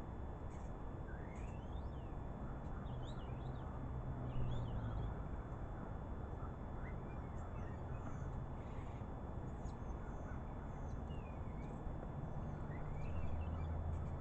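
Wild birds calling, a scatter of short rising and twisting whistles, chirps and clicks, over a steady low rumble.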